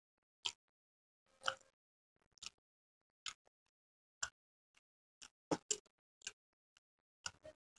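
Eating sounds: about a dozen short, separate clicks and smacks of chewing, irregularly spaced, with near silence between them.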